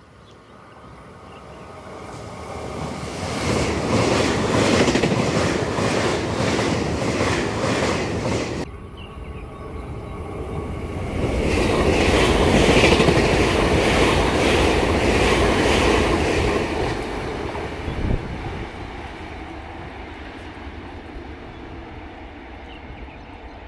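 Puyuma Express electric tilting train (TEMU2000) passing through at speed: a rushing rumble with an evenly repeating clatter of wheels over the rails that builds up, cuts off abruptly about nine seconds in, swells again and then fades away as the train recedes.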